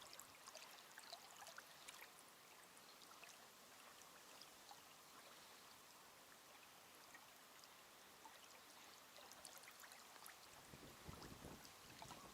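Near silence: a faint steady background hiss with scattered small ticks, and a soft rustling that starts a little before the end.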